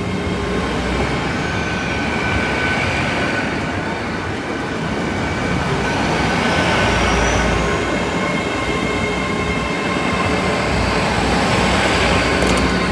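LNER Hitachi Class 800 Azuma bi-mode train passing over a level crossing at low speed, a continuous rumble of wheels and carriages. Several steady high tones and whines that glide up and down in pitch run over it, and it grows a little louder around the middle and again near the end.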